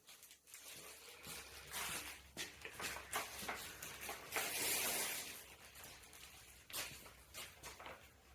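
Hands handling bike parts: scattered light clicks and knocks with short rustles, and a longer rustle about four and a half seconds in.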